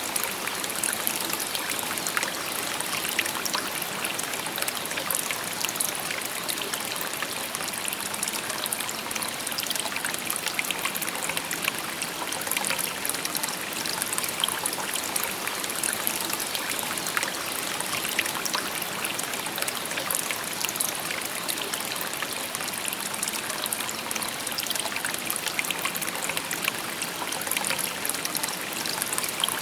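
A shallow river or stream babbling steadily over stones, with many small trickles and splashes and a bright hiss.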